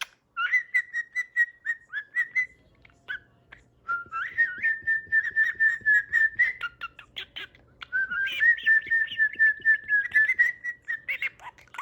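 Pet budgie warbling in three bouts, each a wavering whistle-like tone laced with quick clicks and chirps.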